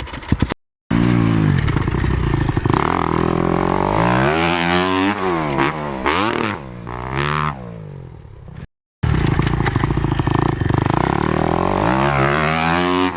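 Motocross dirt bike engine being ridden hard, its pitch climbing and dropping again and again as the throttle is opened and shut. The sound cuts out completely twice for a moment.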